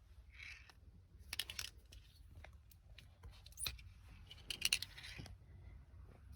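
Small metal hand tools and parts clinking and rattling in three short bursts.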